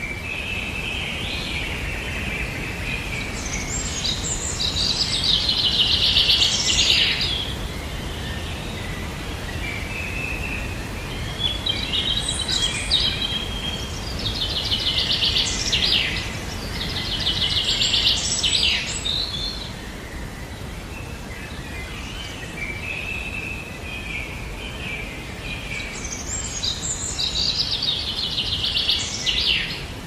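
Songbirds singing: several high, rapid trilled phrases a few seconds apart, over a steady low background noise.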